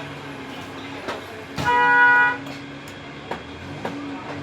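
A vehicle horn sounds once, a single blast of under a second about a second and a half in. Beneath it runs a steady low hum, and a few sharp clicks are heard.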